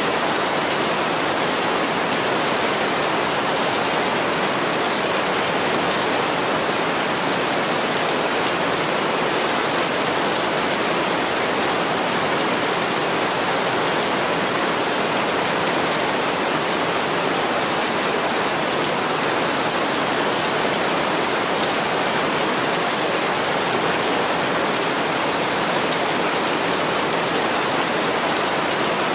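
Heavy rain pouring steadily onto a window, an even, unbroken hiss with no single drops or knocks standing out.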